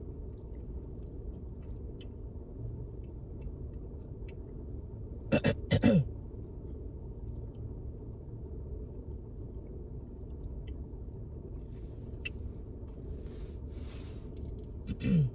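Steady low hum of a car interior, with one short vocal sound about five and a half seconds in.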